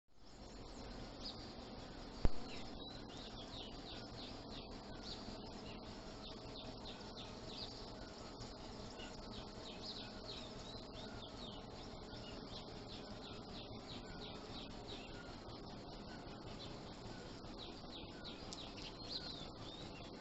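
A dawn chorus of many small birds chirping and calling, with quick falling notes repeating over a steady background hiss. A single sharp click sounds about two seconds in.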